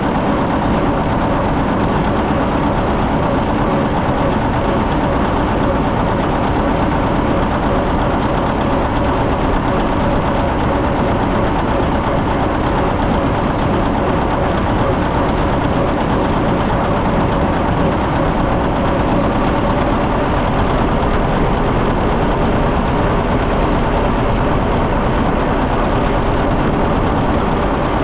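John Deere 730 tractor's two-cylinder engine running steadily as the tractor is driven along the road.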